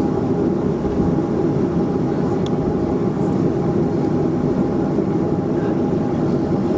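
Steady engine and air noise inside a Boeing 737-400 cabin, with a thin steady whine above it.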